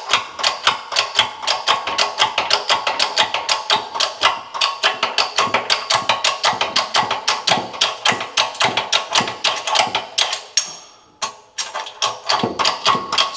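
Rapid, even clicking of a ratchet wrench, about five or six clicks a second, as it turns the forcing screw of a wheel-bearing press tool, drawing a new rear wheel bearing into the hub carrier. The clicking stops briefly about three-quarters of the way through, then starts again.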